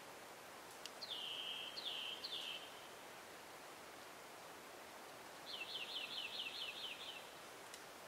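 A songbird sings over a steady, faint forest hiss. It gives three drawn-out down-slurred whistles about a second in, then near the end a quick trill of about eight short down-slurred notes.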